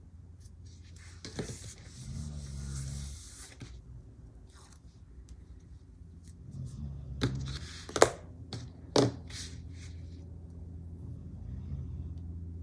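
Desk crafting sounds from handling stickers and washi tape: a short stretch of rustling or peeling early on, then a few sharp clicks or snips, the loudest about eight seconds in, over a low steady hum.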